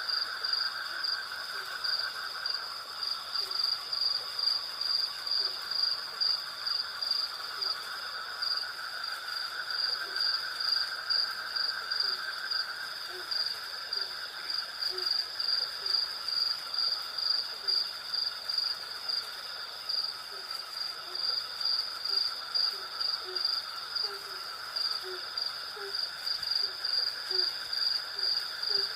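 Night chorus of crickets and other insects: a high, rhythmically pulsing chirping over steadier trilling bands. From about a third of the way in, short low calls join in, scattered and growing more frequent toward the end.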